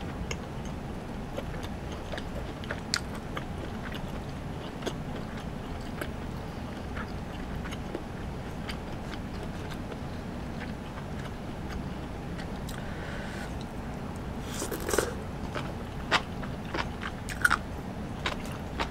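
Close-up chewing and mouth sounds of a person eating, with scattered small clicks over a steady low background noise. A few louder clicks and smacks come about 14 to 17 seconds in.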